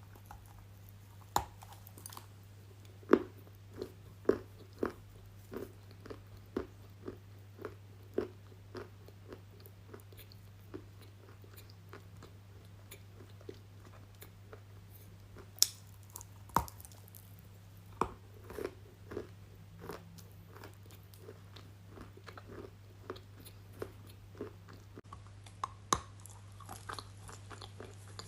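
A person biting into something crunchy close to the microphone and chewing it with crisp crunches about twice a second, with a few louder sharp bites. A steady low hum runs underneath.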